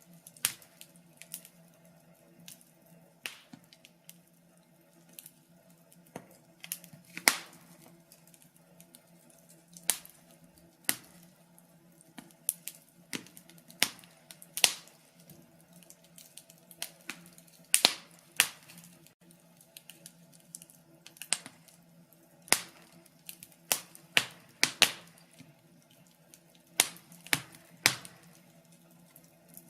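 Fire crackling, with irregular sharp pops and snaps of varying loudness, sometimes several in quick succession, over a faint steady low hum.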